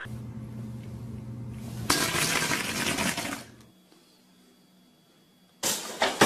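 A steady low hum with a loud stretch of rustling noise, then near silence. Near the end a sudden clatter as a pop-up toaster goes off and a startled cat leaps off its cushion beside it.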